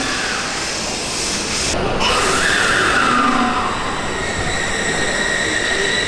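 Odakyu electric train running on the track, with wheel and rail rumble. About two seconds in, a high whine falls in pitch. Near the end, a steady high whine sets in.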